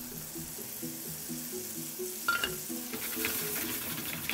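Onions sizzling in the pork's cooking fat in a hot frying pan as a wooden spatula stirs them. The sizzle builds from about two seconds in, just after a light clink, and soft background music with a repeating melody runs underneath.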